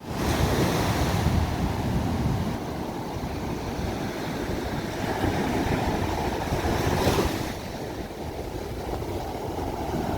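Ocean waves breaking and washing on a shore, with a steady low rumble of surf. Two brighter surges of breaking water, one at the start and one about seven seconds in.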